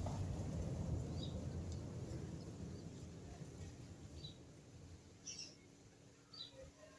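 Short, high bird chirps a few times, spaced out, over a low rumbling noise that fades away during the first few seconds.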